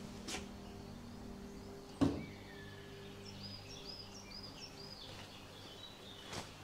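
Quiet forest ambience with a single thump about two seconds in and a small bird calling a series of short, high chirps in the middle.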